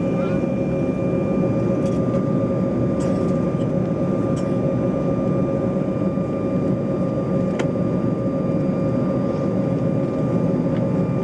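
Steady cabin noise inside an Embraer 190 jet airliner: a constant low rumble with an unchanging whine from the running engines. A few faint clicks.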